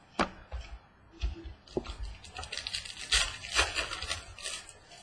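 Trading cards and their packaging being handled: a few light knocks and taps, then a couple of seconds of crinkly rustling, like a foil pack wrapper or card sleeves.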